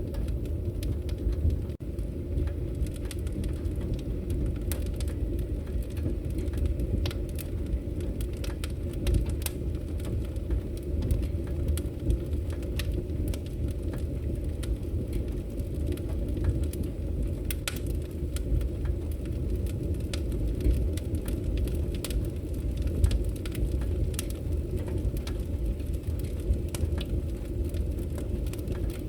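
Wood fire burning in a fireplace: a steady low rumble of the flames with frequent sharp crackles and pops of the burning logs. The sound drops out for an instant about two seconds in.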